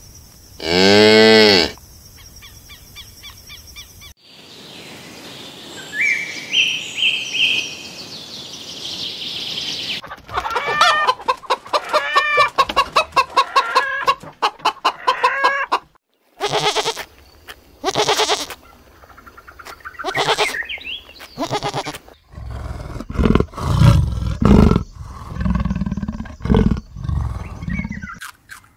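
A run of different animal calls in short clips. A cow moos once, loud, about a second in. Hens cluck rapidly in the middle, and a leopard gives deep repeated grunts near the end.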